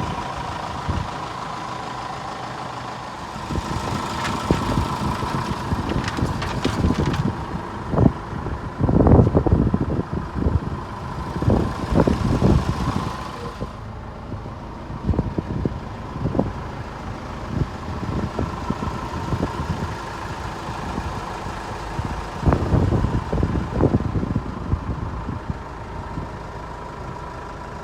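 Mitsubishi Fuso FG dump truck's 3.0L diesel engine running at idle, with a steady thin tone and stretches of uneven louder surges and knocks.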